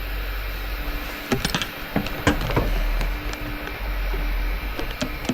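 Low steady rumble of a moving vehicle with a faint hum, broken by scattered sharp knocks and rattles.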